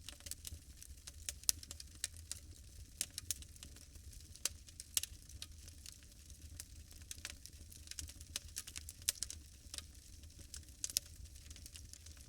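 Bonfire burning: wood crackling with irregular sharp pops and snaps over a low steady rumble.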